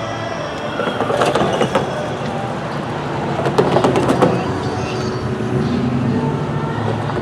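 A train passing: a steady diesel locomotive hum, with two spells of sharp wheel clatter on the rails, about a second in and again around three and a half to four seconds in.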